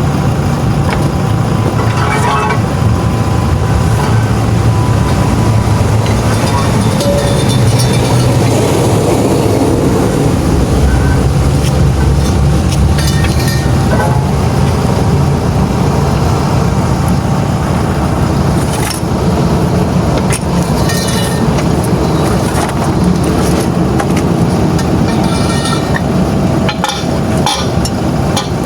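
Heavy truck's diesel engine idling steadily, with occasional short metallic clicks and knocks in the second half.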